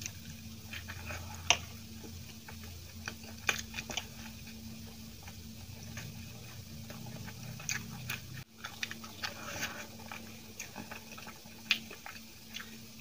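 Close-up chewing of soft steamed idli soaked in tomato chutney: wet mouth clicks and lip smacks at irregular intervals, over a faint steady low hum.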